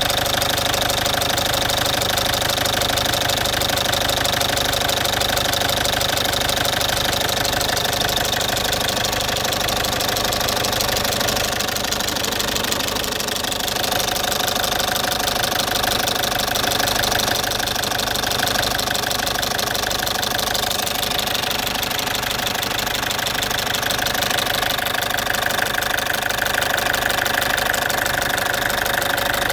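Citroën C5 2.0 HDi 100 kW four-cylinder turbodiesel engine running steadily with a loud, fast ticking. The owner suspects it comes from around the fuel injectors but is not sure.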